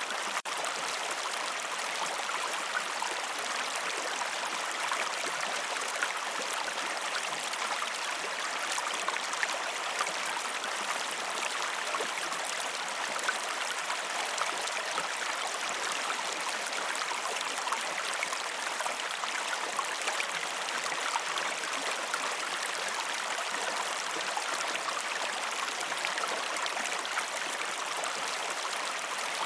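Fast-flowing river water rushing and splashing in a steady, unbroken hiss, full of small splashes.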